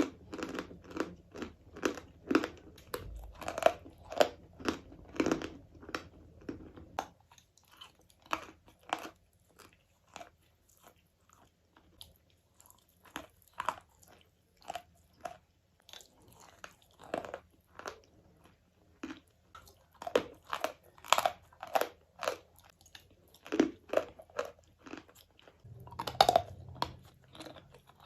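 A person biting and chewing chalk: a quick run of crisp crunches that thins to slower, separate crunches about a quarter of the way in, then comes faster again in the last third.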